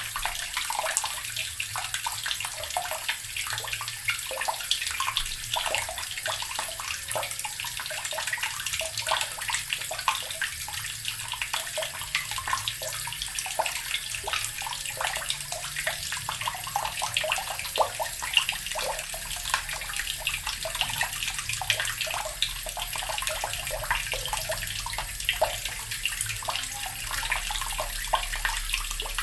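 Water running steadily from a tap and splashing, a continuous bright hiss of many small splashes.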